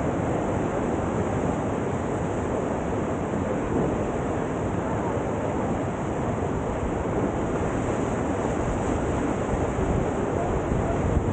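River water rushing steadily through a standing surf wave: a continuous, even roar of whitewater.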